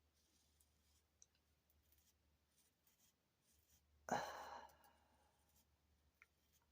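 Near silence, broken about four seconds in by one short, breathy exhale like a sigh that fades within about half a second.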